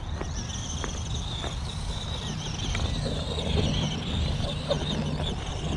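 Arrma Gorgon 1/10 scale electric RC monster truck driving, its motor and gears giving a high whine that wavers up and down with the throttle, over a steady low rumble.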